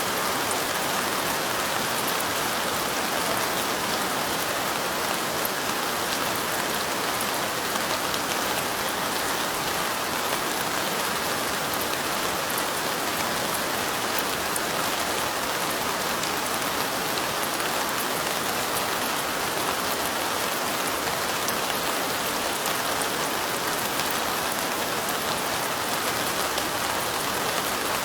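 Light rain falling steadily: an even, unbroken hiss with faint ticks of individual drops.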